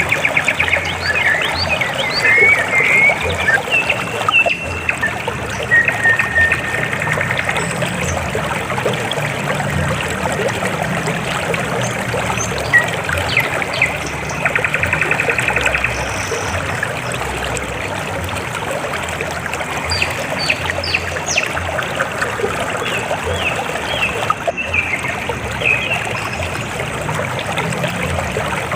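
River water flowing steadily over rocks, a continuous trickling rush, with short high chirps and trills now and then.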